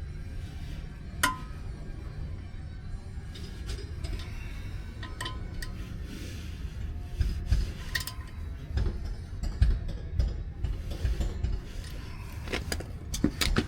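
Scattered metallic clinks of hand tools on steel as a brake caliper is bolted up and its bolts tightened, coming more often near the end, over a low steady rumble.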